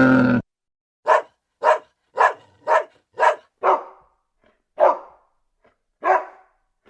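A dog barking: about eight single, sharp barks with short silent gaps, spaced more widely toward the end. Right at the start, the tail of a low, drawn-out animal call cuts off abruptly.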